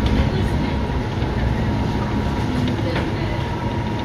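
Cabin sound of a moving Scania K230UB bus: its rear-mounted five-cylinder diesel engine and drivetrain rumbling steadily under road noise, with a couple of sharp rattles from the bodywork, one about three seconds in.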